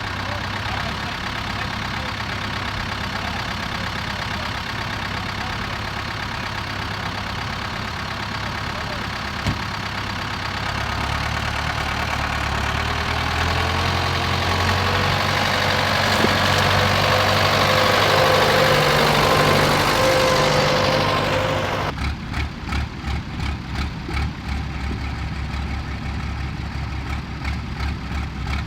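Tractor engines running as tractors arrive: one grows steadily louder as it drives closer, peaking about two-thirds of the way through. After an abrupt change near the end, a tractor engine idles with an even, pulsing beat.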